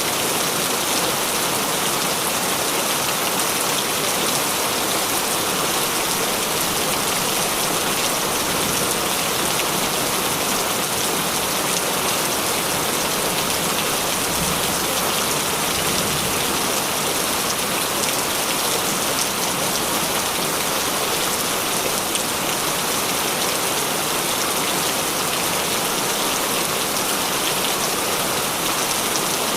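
Heavy rain falling steadily, a dense, even hiss of many drops with fine pattering, no let-up in intensity.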